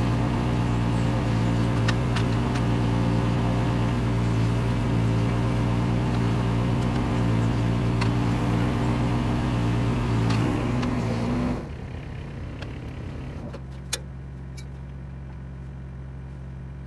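Case 420CT skid steer's diesel engine running steadily at high throttle, then dropping back to a low idle about two-thirds of the way through. A single sharp click follows a couple of seconds later.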